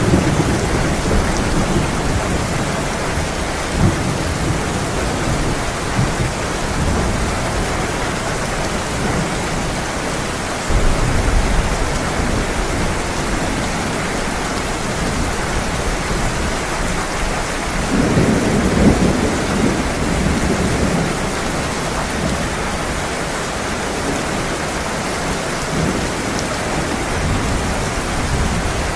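Heavy rain pouring steadily, with thunder rumbling several times underneath; a sudden low swell comes about a third of the way in, and the longest, loudest roll of thunder comes about two-thirds of the way through.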